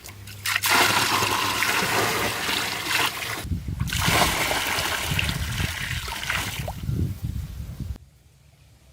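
Water pouring and splashing in two long spells of about three seconds each, with a brief break between them.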